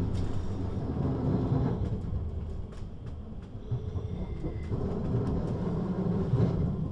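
Siemens Desiro HC (class 462) electric multiple unit running: a steady low rumble with a faint hum and a few sharp clicks. It grows louder about a second in and again near the end.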